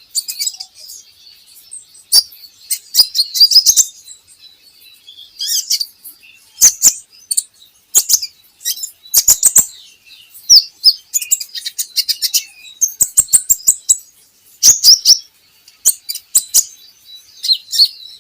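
Purple-throated sunbird (kolibri ninja) singing: bursts of rapid, high-pitched chirps and twittering trills broken by short pauses. This is the bird's full, energetic song, played as a lure recording to get caged birds singing.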